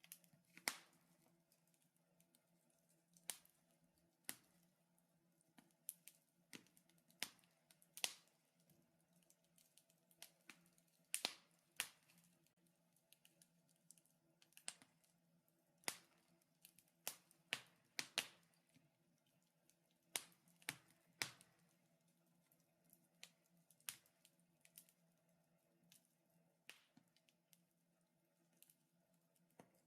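Wood fire crackling in a fireplace: irregular sharp pops and snaps, sometimes several in quick succession, sometimes a couple of seconds apart, over a faint steady hum.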